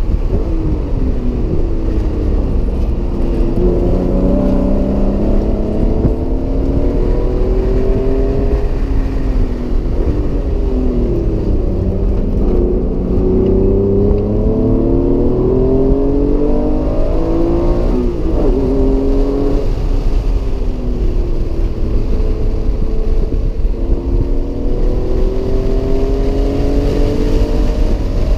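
Acura NSX's mid-mounted V6 heard from inside the cabin at track speed. Its pitch climbs hard under acceleration several times and drops back between pulls at gear changes and lifts, over a steady rumble of road and wind noise.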